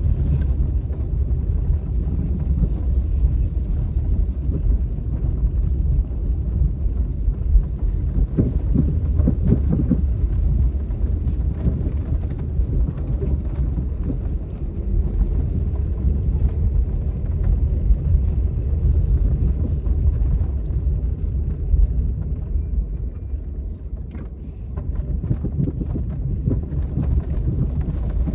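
Strong storm wind buffeting the microphone: a loud, steady low rumble that eases briefly near the end.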